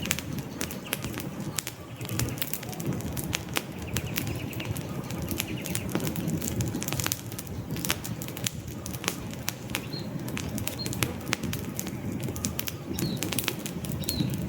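Wood campfire burning, with frequent sharp crackles and pops over a low steady rush of flame. A few short, high bird chirps come through in the second half.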